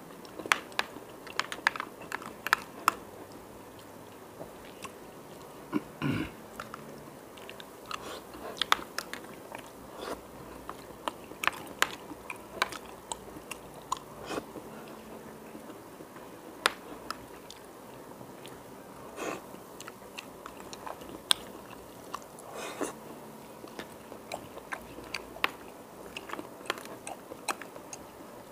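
A person chewing and biting food, with many short, sharp mouth clicks and smacks at irregular intervals.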